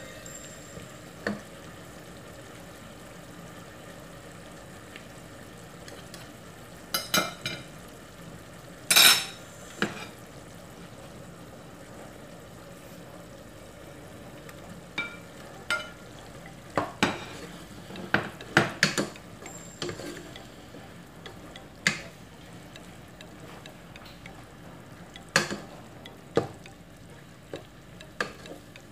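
A chop suey stir-fry of carrots, chicken and broccoli sizzling in a pot as a plastic spatula stirs it, with sharp knocks and scrapes of the utensil against the pot and plate now and then; the loudest knock comes about nine seconds in.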